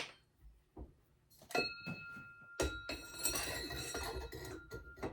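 Metal parts clinking and clattering as they are handled; one piece, struck about a second and a half in, rings with a steady bell-like tone that lasts until near the end.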